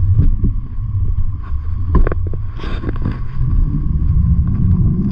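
Low rumble of wind buffeting the microphone while riding a bicycle, with scattered clicks and rattles.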